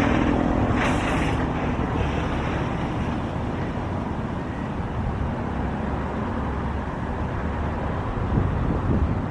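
Wind buffeting the microphone over a steady low rumble, with a short hiss about a second in.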